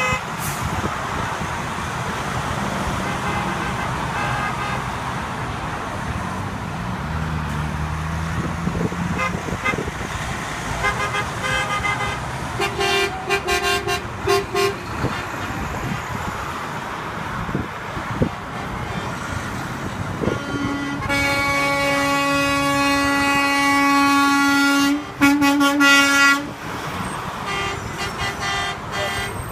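Trucks in a convoy passing with engines running and horns honking. There are a few short toots in the middle, then one long, loud horn blast near the end.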